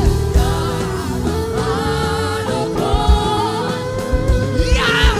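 Live gospel worship music: voices singing over a held chord, with a steady drum beat underneath.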